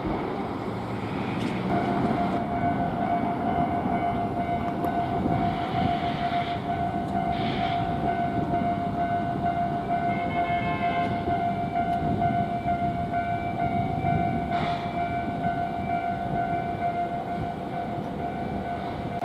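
Electric train running through a Japanese level crossing with a continuous rumble. About two seconds in, a steady ringing tone from the crossing's warning alarm sets in over it and keeps going.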